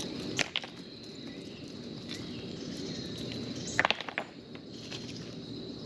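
A few sharp knocks, two close together about half a second in and a cluster just before four seconds, over a steady high insect drone.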